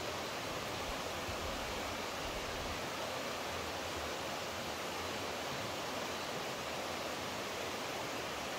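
Flowing water rushing steadily, an even unbroken noise with no separate events.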